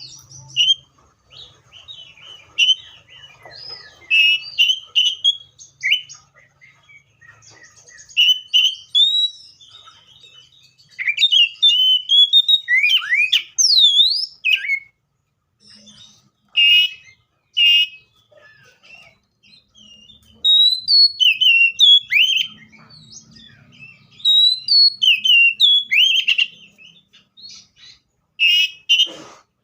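Magpie-robin singing: a varied run of loud whistled phrases and chirps that sweep up and down, with short pauses between phrases. There is a sharp click near the end.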